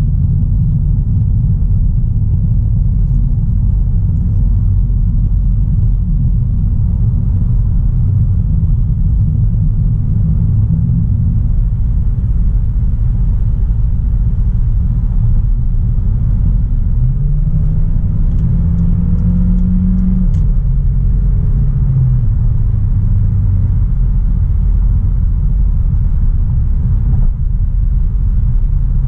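Audi A3 Sportback 1.4 TFSI turbocharged four-cylinder driving, a steady low rumble of engine and road noise. A little over halfway through, the engine note rises for about three seconds, then drops and settles lower, as at an upshift.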